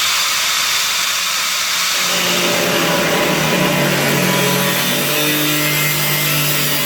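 Power tool cutting through a car's sheet-steel floor panel: a loud, steady hiss, with a lower motor note coming in about two seconds in.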